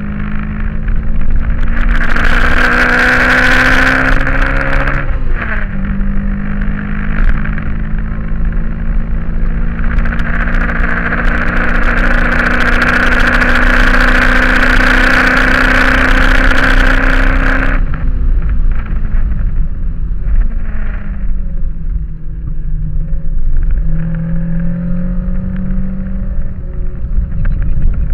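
Toyota Corolla AE86's 20-valve 4A-GE four-cylinder engine heard from inside the cabin at full throttle on track. The pitch climbs, drops at a gear change about five seconds in, then rises slowly through a long pull in a high gear until the throttle is lifted about eighteen seconds in. The engine runs lower for a few seconds and picks up again near the end.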